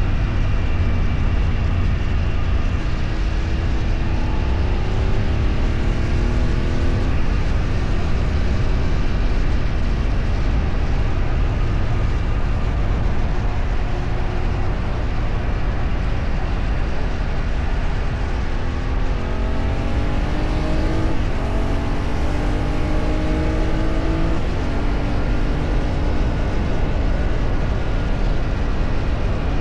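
A vehicle's engine pulls through its gears over a steady heavy rumble of road and wind noise. Its pitch climbs and breaks off at a gear change, once a few seconds in and again about two-thirds of the way through.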